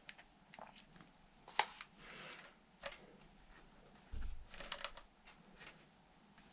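Faint scattered light clicks and short rustles of hands handling a small tyre pump and its hose at the scooter's front-wheel valve, with a soft low thump a little after four seconds in.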